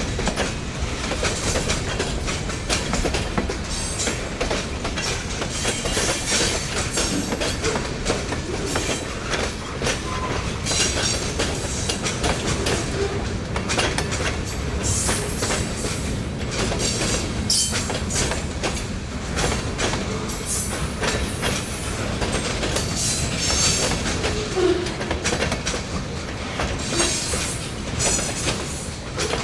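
Railroad cars rolling past, their wheels clicking steadily over the rail joints, with brief high wheel squeals now and then.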